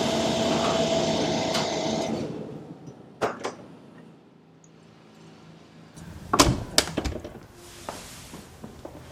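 A steady machine hum with a held tone fades out about two seconds in. It is followed by a few scattered knocks and clunks, the loudest pair about six and a half to seven seconds in.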